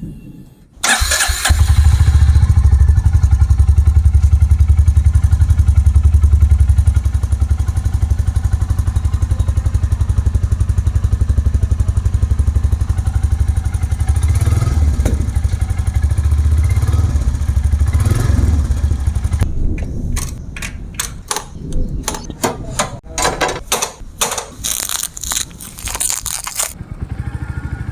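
Royal Enfield Meteor 350's single-cylinder engine starting about a second in and running with a steady, deep thump. Near the end it is joined by a quick series of short, sharp sounds.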